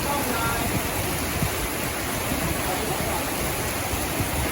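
Heavy tropical downpour: rain pouring down steadily in an even, unbroken hiss.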